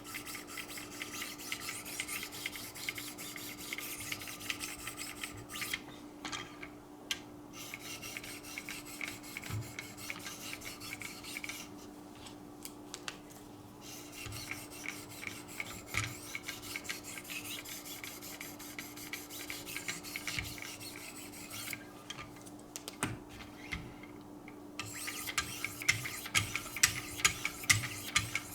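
2,200-grit hones of a Wicked Edge guided sharpening system stroking along a knife's edge: a continuous run of quick rasping strokes with a few brief pauses, over a steady low hum.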